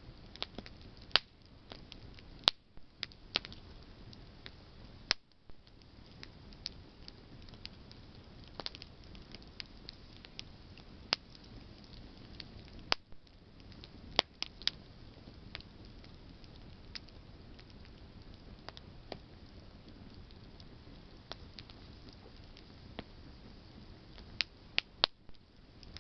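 Campfire of burning branches crackling: irregular sharp pops and snaps over a steady low hiss, with a few louder snaps scattered through.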